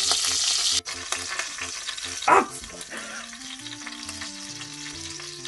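Giant hornets frying in hot olive oil, the water inside them popping and crackling. A loud sizzle cuts off abruptly under a second in, then quieter crackling continues as they are stirred with chopsticks.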